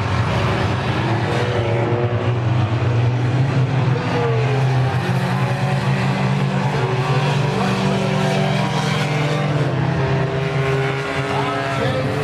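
Claimer race cars running together around the track, their engines droning steadily with a constant pitch.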